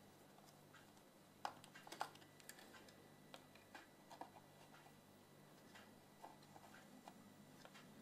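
Near silence: faint, irregular small clicks and taps over a low steady hum.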